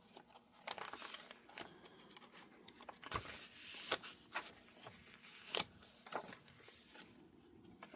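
Soft paper rustling with scattered light taps and clicks as the pages, pockets and cards of a handmade junk journal are handled and turned. The sharpest clicks fall about three, four and five and a half seconds in.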